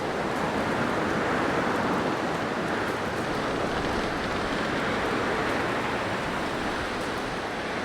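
Blizzard wind: a steady rushing noise that swells and eases slightly.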